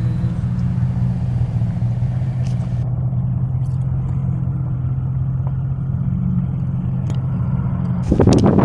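Semi truck's diesel engine idling with a steady low hum. Near the end, wind gusts buffet the microphone.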